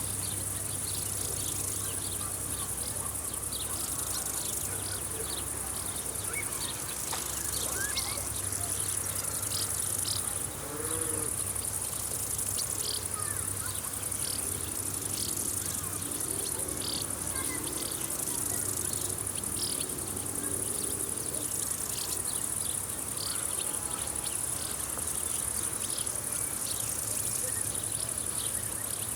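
Crickets chirping in a summer field: a steady high-pitched trill, with many short chirps sounding over it.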